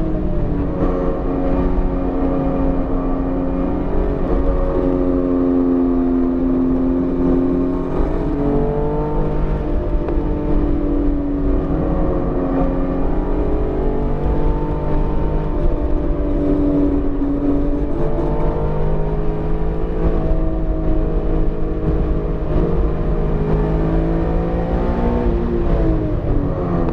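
BMW E46 M3's S54 straight-six engine running under load on track, its pitch falling sharply at the start, then rising and easing with the throttle, and dropping near the end before climbing again. The engine is newly built and still in break-in, held below 7,000 rpm.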